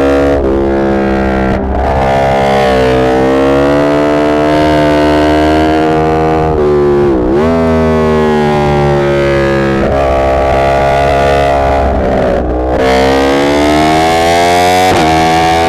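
Yamaha MT-10's crossplane inline-four exhaust under hard acceleration. The engine pitch climbs steadily through each gear, with brief breaks at the upshifts, and dips sharply and climbs again about halfway through.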